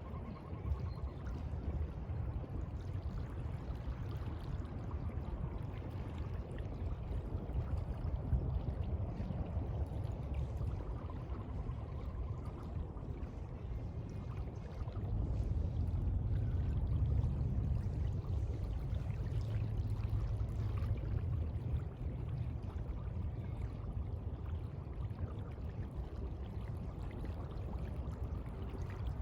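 Sea water washing and sloshing in a continuous rush with a deep low rumble, swelling louder for several seconds about halfway through.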